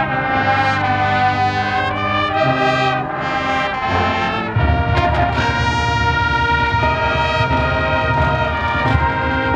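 A marching band playing live, its brass section holding loud chords; about halfway through, the low brass and drums come in much heavier underneath.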